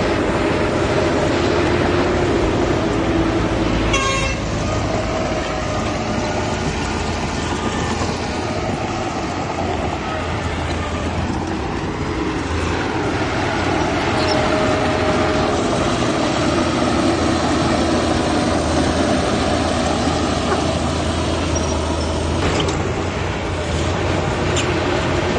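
Heavy diesel engines of dump trucks and a bulldozer running steadily at an earthmoving site, with a brief toot about four seconds in.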